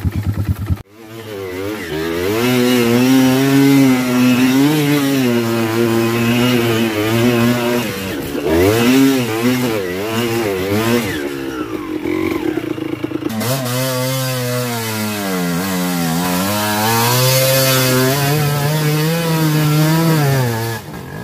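Enduro dirt bike engine revving hard, its pitch climbing and falling again and again as the throttle is worked. The sound cuts out briefly about a second in, then the revving resumes.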